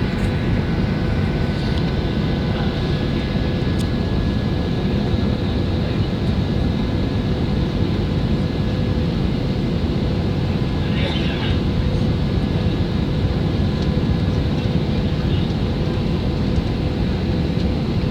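Steady cabin noise inside a Boeing 737-800 taxiing, its CFM56-7B turbofan engines running at low power: an even rumble with a few faint steady tones.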